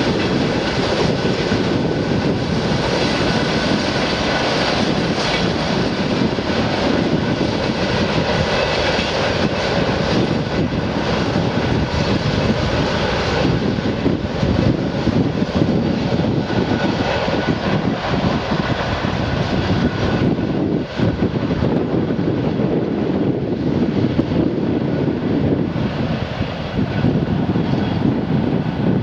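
Strong wind buffeting the microphone: a loud, continuous rushing noise that flutters unevenly.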